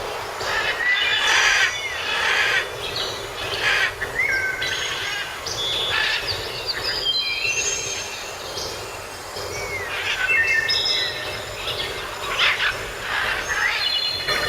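Several birds chirping and whistling in short curved and level notes, over a steady hiss.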